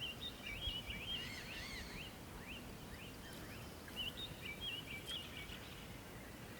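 Wild birds calling, a run of short whistled chirps and rising notes repeating throughout, over faint outdoor background noise.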